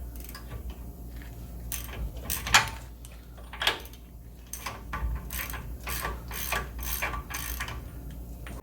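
Socket ratchet clicking in slow, uneven strokes, about two clicks a second, as a 21 mm socket works the tie rod end nut.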